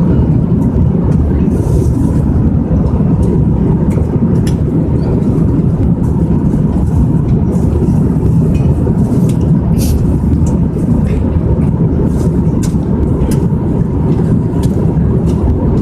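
Steady low roar of an airliner cabin in flight, with occasional light clicks over it.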